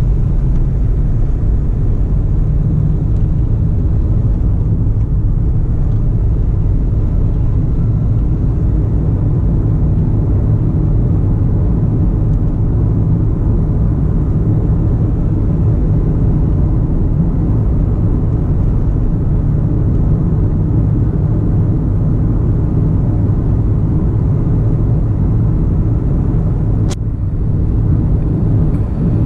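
Steady low rumble of a car driving on the road, with one sharp click near the end.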